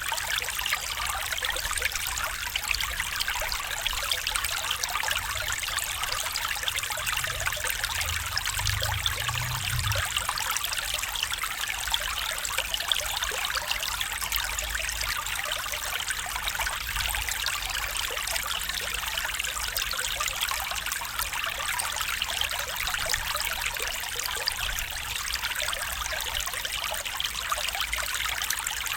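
Stream water trickling and babbling in a steady, unbroken flow, with a faint low rumble for a few seconds about a quarter of the way in.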